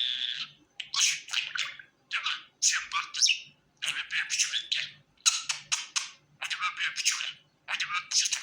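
Pet budgerigar chattering in quick high-pitched warbled bursts, about eight short phrases with brief pauses between them.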